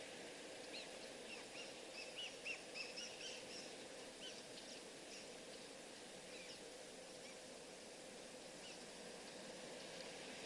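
Birds chirping outdoors: a quick flurry of short, high chirps in the first few seconds, then only scattered calls, over a faint steady background hiss.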